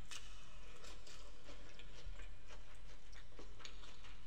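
Close-miked chewing and biting of sauce-coated boiled prawns: irregular wet, sticky clicks and smacks over a steady low hum.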